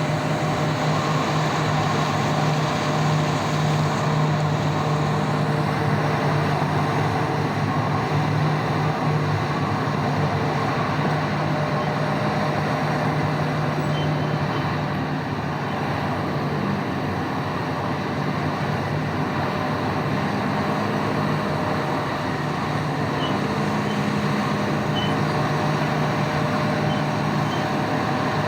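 Large diesel engines of heavy mining machinery, a 994 loader and BelAZ haul trucks, running steadily with a constant low drone.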